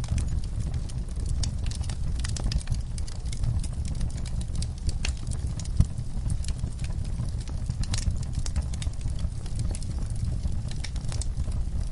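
Wood fire burning with a steady low rumble and many sharp, irregular crackles and pops, one of them louder about six seconds in.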